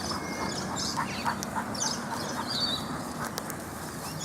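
Wild birds calling, many short high calls overlapping, with a run of brief lower chirps between about one and two and a half seconds in.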